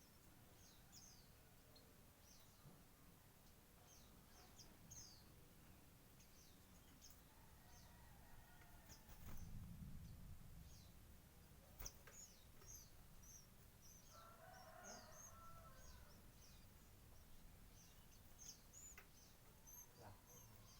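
Faint, short, high chirps of white-eyes (pleci), repeated many times, with a lower, fuller call a little past the middle. A dull low bump about nine seconds in and a single sharp click a little later.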